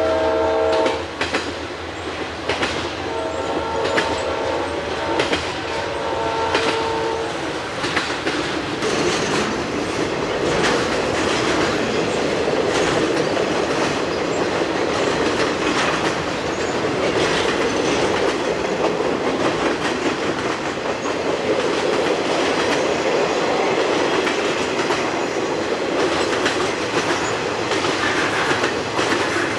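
Conrail diesel locomotive's air horn sounding in blasts, the last ending about seven seconds in, then an intermodal piggyback freight train rolling past with a steady rumble and wheels clicking over rail joints.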